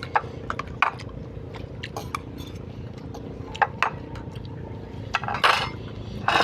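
Dishes and cutlery clinking in short, scattered clinks, with a louder clattering run about five seconds in, over a steady low hum.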